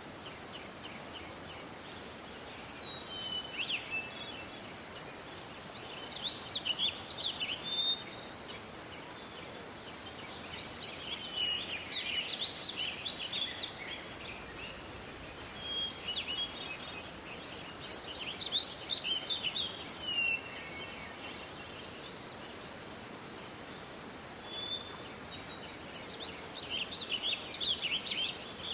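Songbirds singing in repeated bursts of quick, high chirping and trilling notes, each bout lasting a second or three and coming every few seconds, over a steady background hiss.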